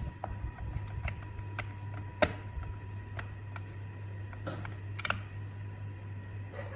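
A series of light clicks and taps from parts being handled, with one sharper click a little over two seconds in and a brief hiss near the middle, over a steady low hum.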